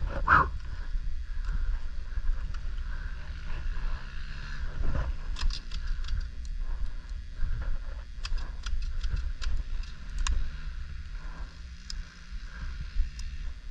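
Pit bike running along a muddy track, its engine low under a steady wind rumble on the microphone, with scattered sharp clicks and knocks through the middle.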